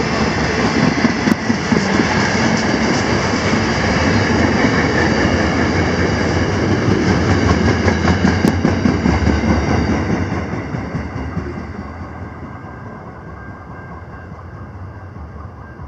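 Container freight train wagons rolling past close by, a loud, steady rumble of wheels on rail. The last wagon passes about ten seconds in and the sound fades away.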